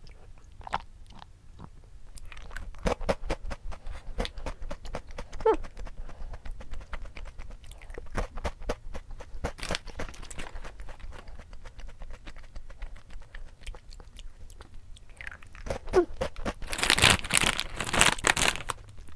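Close-miked crunching and chewing of a crunchy puffed strawberry snack, many small crackling crunches in quick succession. Near the end comes a louder rustle of a plastic snack bag being picked up and handled.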